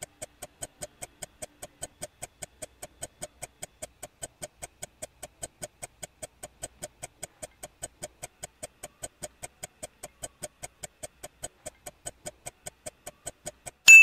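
Countdown-timer sound effect ticking steadily, about four to five ticks a second, ending in a loud bright ding at the very end that marks the answer being revealed.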